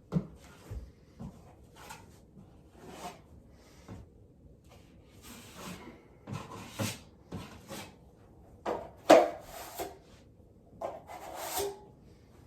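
Drywall knife scraping and spreading joint compound over a drywall patch in irregular strokes, the strongest about nine seconds in and near the end.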